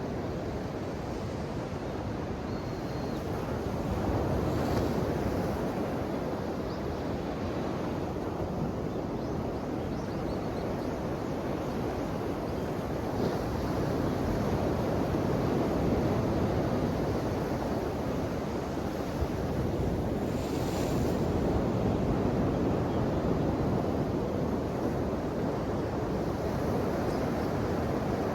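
Ocean waves breaking and washing in, a steady rush of surf that swells and eases gently.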